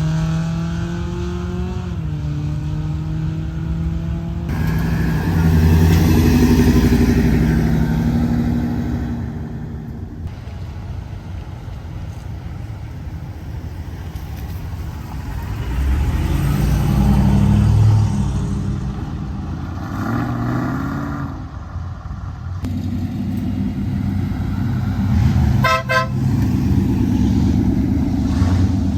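Car engines at a drag strip. A V6 Ford Mustang accelerates hard, its pitch rising and then dropping at a gear change about two seconds in. Other cars' engines rise and fall as they rev and pull away.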